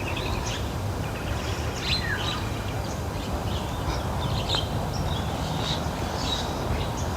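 Garden ambience: a steady low background noise with many short bird chirps scattered throughout.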